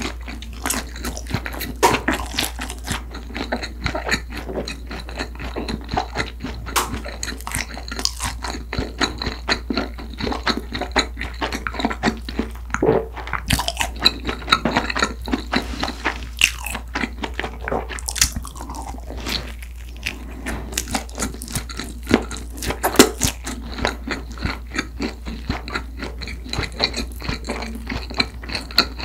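Close-miked chewing of a jalapeño sausage bread: a dense, irregular run of small crunchy clicks and mouth sounds, with a few sharper bites standing out.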